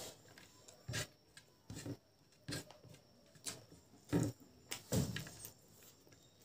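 Close-up chewing and lip smacking of a person eating rice and boiled pork by hand, in short smacks one or two a second, with fingers rubbing and scraping rice across a plate.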